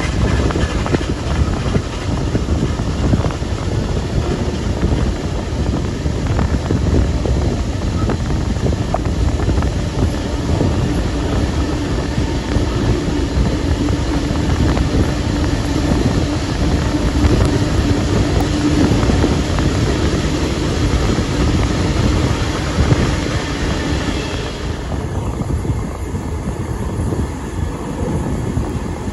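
Steam-hauled passenger train's carriages rolling along the track at speed, heard from an open carriage window, with wind rushing over the microphone. The high rushing hiss dulls suddenly about 25 seconds in.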